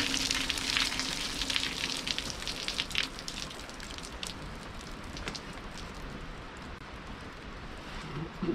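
Steady rushing noise of a distant forest waterfall. For the first three seconds or so it is louder, with crackling and rustling over it.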